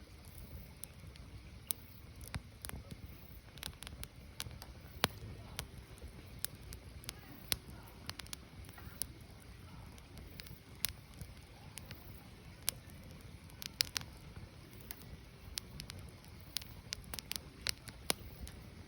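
Burning firewood crackling, with irregular sharp pops and snaps over a low, steady rumble of flame.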